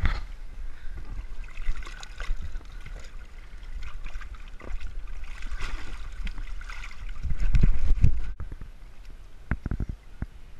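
Water gurgling and trickling, with a louder low rumble on the microphone about seven seconds in.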